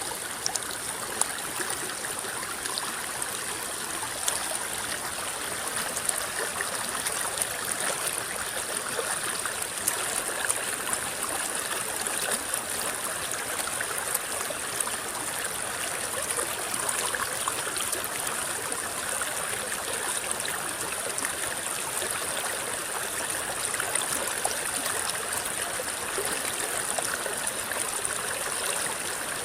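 A shallow river rippling and babbling over stones, a steady rush of flowing water with small splashes and trickles throughout.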